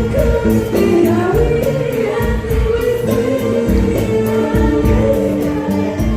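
Youth choir singing together over musical accompaniment with a steady percussion beat.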